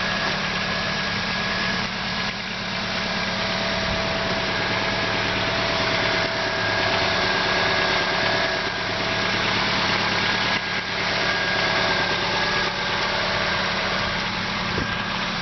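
1997 Honda Accord engine idling steadily, with a thin, steady whine above the engine hum.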